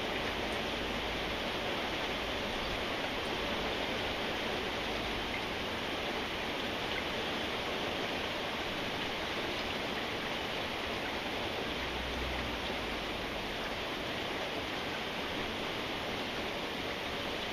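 Steady rainfall, an even hiss of rain with no distinct drops standing out.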